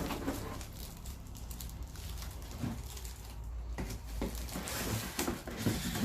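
Rustling and light tapping of paper booklets and packaging being handled, with a sharp knock right at the start.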